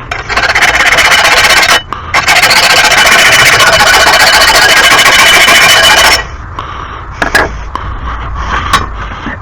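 A power grinder grinding metal off the heavy end of a lawn mower blade to balance it: a short run, a brief pause, then a longer steady run of about four seconds that stops abruptly.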